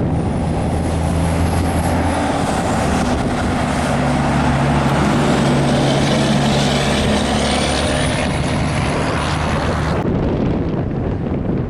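Heavy diesel truck engine running as a big rig goes by, a steady low drone over road noise, with a faint high whine that dips and then slowly climbs. The hiss of the upper range drops away about ten seconds in.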